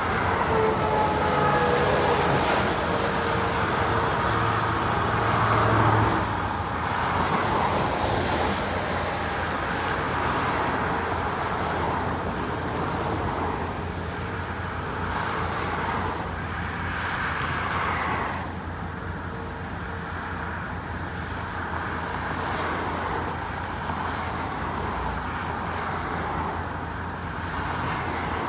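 A long line of cars driving past, with steady tyre and road noise that swells as each vehicle goes by. In the first few seconds a passing vehicle adds a faint pitched whine that sinks slightly in pitch.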